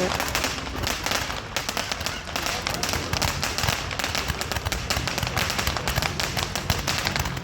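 Fireworks crackling: a dense, continuous run of rapid small pops that starts abruptly.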